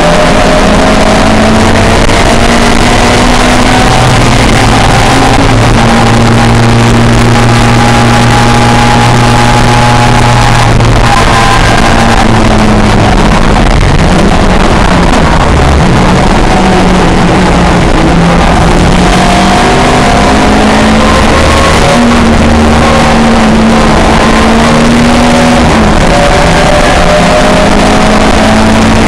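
Pre-1966 touring car racing engine at full throttle, its pitch climbing through the gears and dropping at each shift or braking point, over and over.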